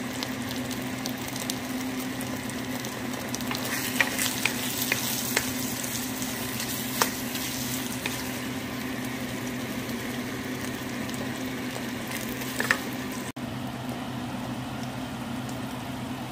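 Pork in thick coconut milk sizzling steadily in a nonstick wok as the sauce reduces and the meat gives up its own oil, with a wooden spatula stirring and clicking against the pan a few times.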